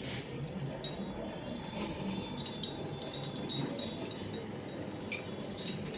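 Light clinks and taps of lab glassware being handled, scattered over a steady background hum.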